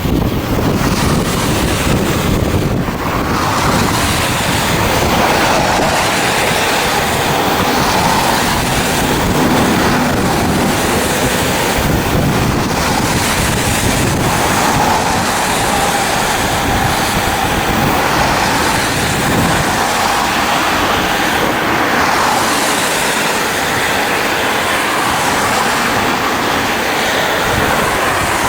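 A freight train running along the track: a JR Freight DF200 diesel-electric locomotive hauling container wagons, with a steady rumble of wheels and cars and faint held tones over it, and wind on the microphone.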